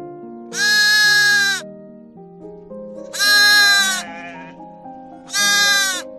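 Three loud bleats from a sheep or goat, each about a second long and dipping in pitch at the end, over soft background music with slowly changing held notes.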